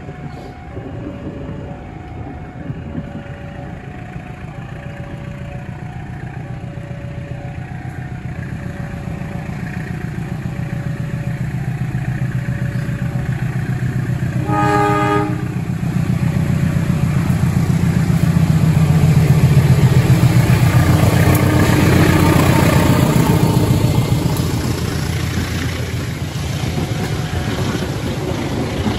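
A diesel locomotive hauling a passenger train approaches, its engine rumble growing steadily louder. It sounds its horn once, briefly, about halfway through, and the engine is loudest a few seconds later as it passes close by. The coaches then roll past with wheels clattering on the rails. Faint alternating two-tone beeping runs through the first dozen seconds.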